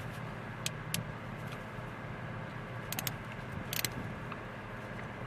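A few sharp metallic clicks and clinks of a screwdriver and small parts against the carburetor body during disassembly: two single clicks about a second in, a double click about three seconds in and a short cluster near four seconds. A steady low hum runs underneath.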